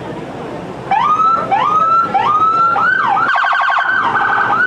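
Emergency vehicle siren starting about a second in: rapid rising yelps, about two a second, switching partway through to a fast warble, then back to yelps.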